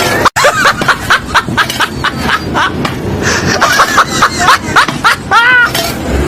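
A person laughing hard in a fast run of short pitched 'ha' bursts, several a second, with a brief pause partway and a rising-then-falling squeal near the end.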